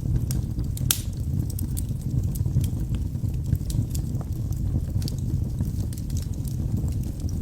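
Wood fire burning in a fireplace: a steady low rumble of flames with irregular sharp crackles and pops of burning logs, one louder pop about a second in.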